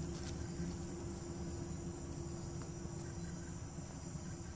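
Insects trilling steadily in a high-pitched evening chorus, with a faint steady low hum and rumble underneath.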